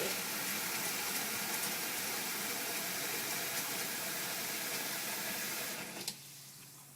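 Cold water running steadily into a sink to flush away leftover vinegar, shut off about six seconds in.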